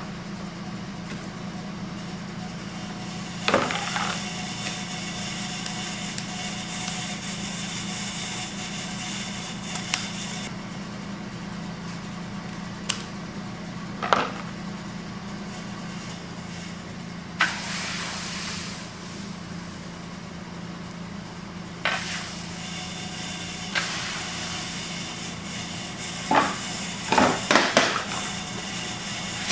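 A steady machine hum, with occasional sharp knocks and clatters and a short hiss about 17 seconds in; a flurry of knocks comes near the end.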